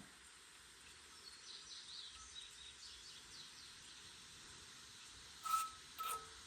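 Faint bird chirps in the background, then two short, sharp sounds about half a second apart near the end.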